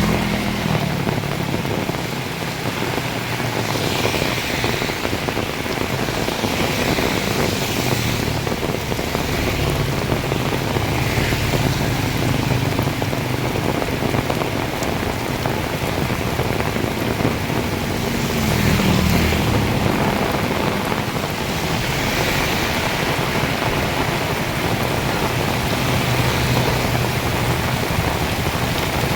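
Heavy rain pouring steadily. Motor vehicle engines pass by several times, the loudest about two-thirds of the way through.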